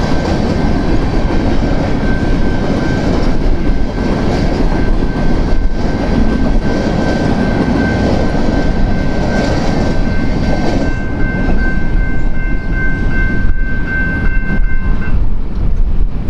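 Freight train of grain hopper cars rolling past at speed: wheels clacking over the rail joints under a loud, steady rumble, with a high steady whine that stops near the end.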